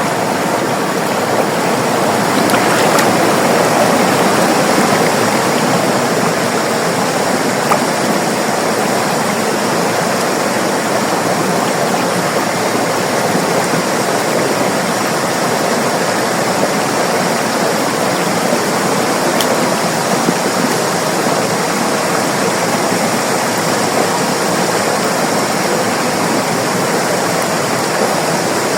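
River water flowing over rocks: a steady rushing and babbling, a little louder a few seconds in.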